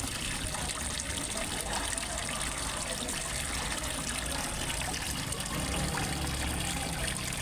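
Small waterfall trickling and splashing steadily into a fish pond, with a low rumble of falling water underneath.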